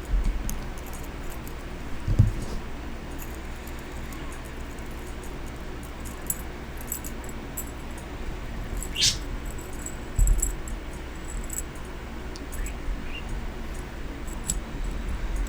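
Small metal parts clicking and jingling as they are handled, with two dull thumps and a short rising chirp about nine seconds in.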